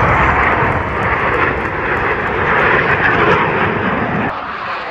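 Blue Angels F/A-18 Super Hornet jets flying past, loud jet engine noise that eases off about four seconds in.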